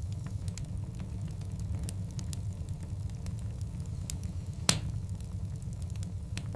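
Wood fire of large burning logs crackling: scattered sharp pops over a steady low rumble, with one loud pop a little past halfway.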